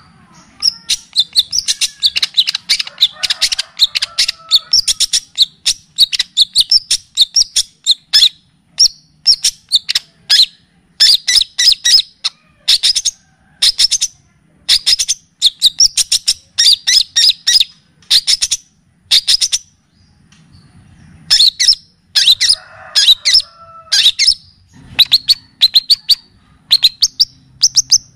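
Recorded songbird song used as masteran for training a cendet: fast series of sharp, high chirps in bursts, with a brief pause about twenty seconds in and some softer, lower warbling twice.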